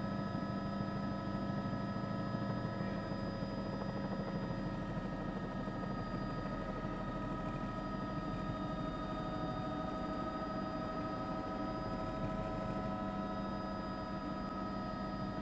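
A steady machine hum with several constant pitched tones over low rumbling noise, unchanging throughout.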